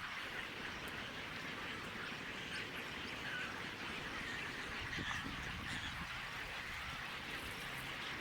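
Steady outdoor background hiss with faint, scattered bird calls.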